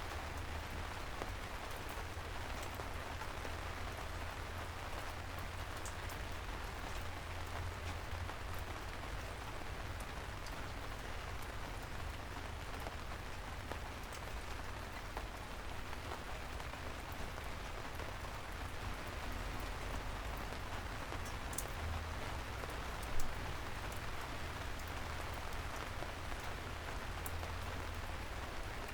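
Soft rain falling steadily on city streets, with single drops ticking here and there over a low rumble. One brief louder knock comes about two-thirds of the way through.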